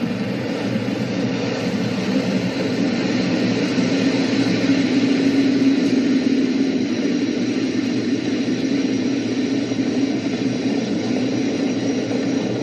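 Steady, loud rumble of a SpaceX Falcon 9 first stage's nine Merlin 1D engines at full thrust during ascent, swelling slightly a few seconds in.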